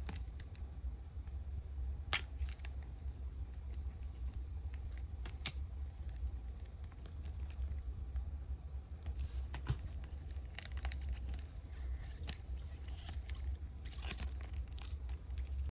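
Crinkling and tearing of a trading-card pack's wrapper, with scattered sharp clicks throughout and denser crackling in the second half, over a steady low rumble.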